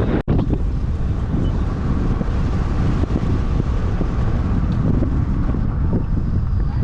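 Wind buffeting the microphone over a steady low rumble, as from a moving vehicle. The sound cuts out for an instant just after the start.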